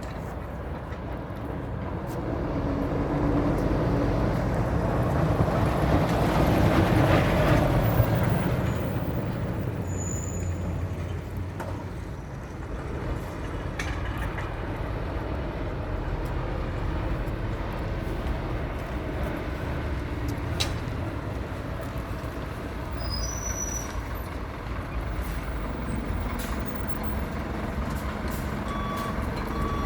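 Scania P360 fire engine's diesel running as the truck pulls up, loudest a few seconds in, with a hiss of air brakes around the peak, then running steadily at low speed. Short repeated reversing beeps start near the end.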